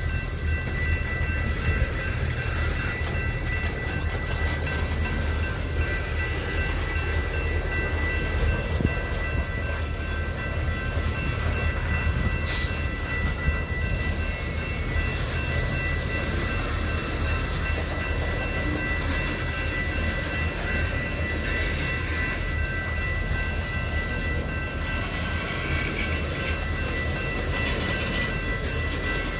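A train running past with a steady low rumble, and a thin high whine held steady throughout.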